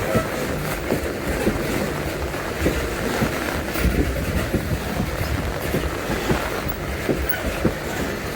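Loaded freight wagons rolling past, their wheels knocking over the rail joints in quick, irregular clacks over a steady rumble and rush.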